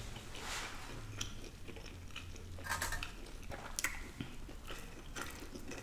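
A person chewing and biting food close to the microphone: irregular small clicks and short crunchy, wet mouth sounds, over a faint low hum.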